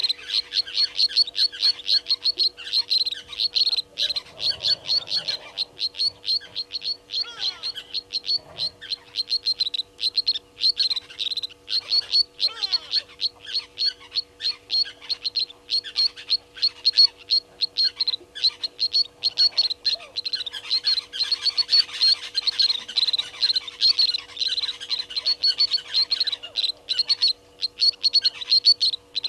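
A bird chirping over and over in a fast, steady rhythm of about five short high chirps a second.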